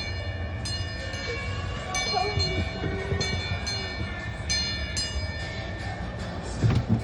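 A ride-on amusement train's bell ringing in pairs of strikes, ding-ding, again and again, over the low rumble of the train running.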